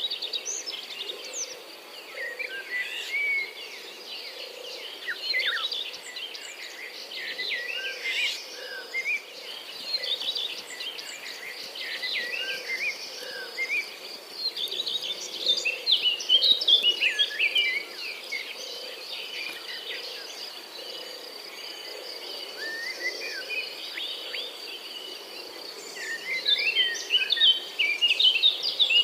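Small birds chirping and twittering in quick, repeated short calls, busiest about halfway through and again near the end, over a steady high-pitched insect drone.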